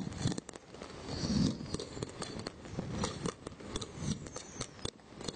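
Fireworks going off: many sharp cracks and pops, with a few dull booms about a second or so apart.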